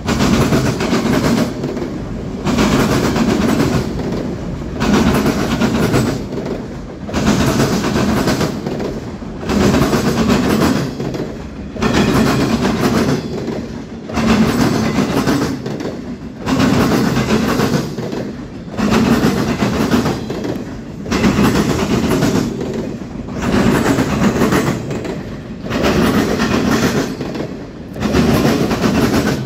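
Freight train rolling past, its cars' wheels clacking over the rail joints in a regular rhythm, loudest about once every two seconds.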